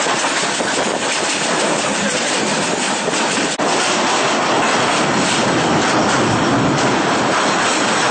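Steady running noise of a moving passenger train, heard from inside the carriage at an open window. It drops out for an instant about three and a half seconds in.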